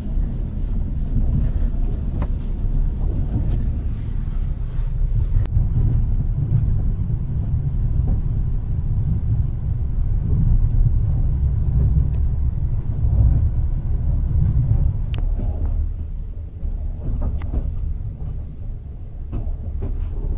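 Steady low rumble of a moving passenger train heard from inside a sleeper compartment, with a few sharp clicks and creaks. It grows quieter over the last few seconds as the train slows into a station.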